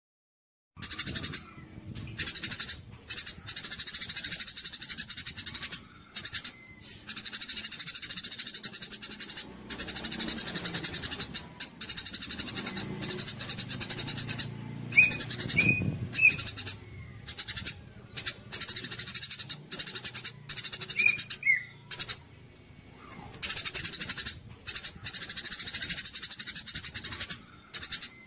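A songbird singing a rapid, high-pitched chattering trill in long runs broken by short pauses, with a few faint separate chirps from another bird. It is recorded bird song of the kind played to train competition songbirds.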